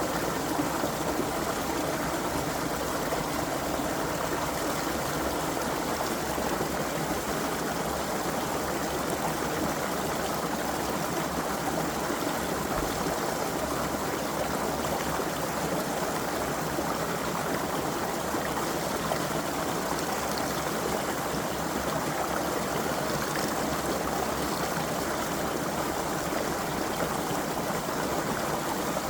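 Creek water flowing and babbling over stones, a steady, even rush.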